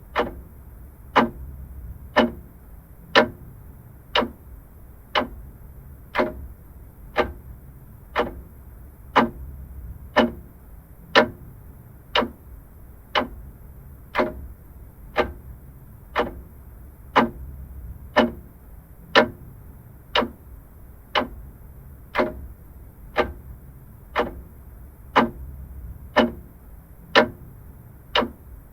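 Vintage mechanical clock ticking steadily, about one tick a second, with the ticks slightly alternating in strength, over a faint low rumble.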